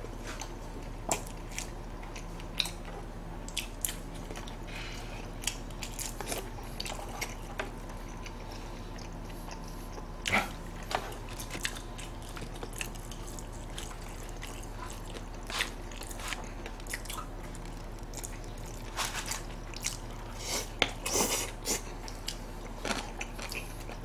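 Close-up chewing and biting of braised pork trotters (jokbal), with scattered wet mouth sounds and sharp clicks of chopsticks against plastic takeout containers, over a steady low hum.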